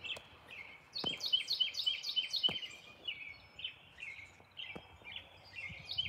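Songbird singing outdoors: a fast series of repeated high chirps about a second in, followed by several shorter chirping phrases.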